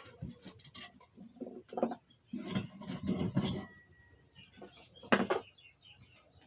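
Metal clinks and knocks of tools and parts while an electric motor is taken apart: a few light clinks, then a dense clatter of metal on metal, and one more sharp strike near the end.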